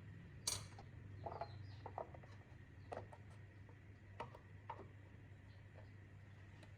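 A handful of light, separate clicks and taps from small parts being handled, the sharpest about half a second in, over a steady low hum, with faint bird chirps.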